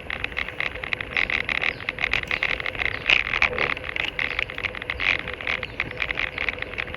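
Ride noise from a moving bicycle: dense, irregular clicking and rattling over a steady hiss of tyres on a wet path.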